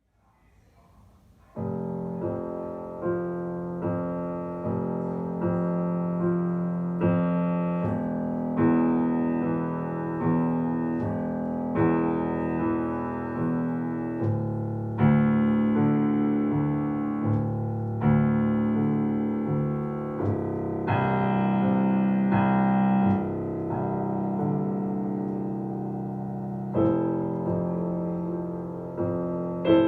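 Solo piano playing a slow original piece in A minor. Chords are struck about every second and a half and ring on as they fade, beginning about a second and a half in.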